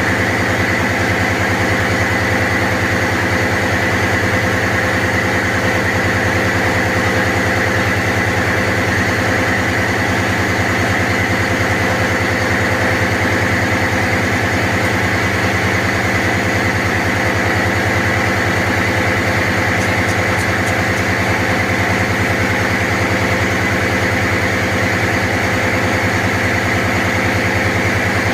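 Diesel machinery in a ship's engine room running steadily: a loud, constant engine drone with a steady high-pitched whine above it.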